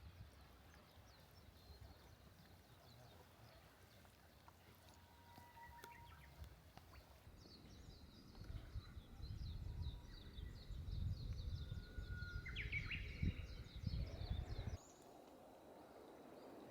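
Small birds chirping in quick, repeated short calls, over a low rumble that cuts off abruptly near the end.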